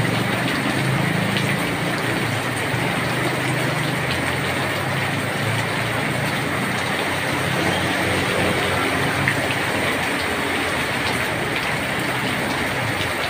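Heavy rain falling on a wet asphalt road, a steady hiss, with the low hum of passing motorbike engines and tyres on the wet road that fades near the end.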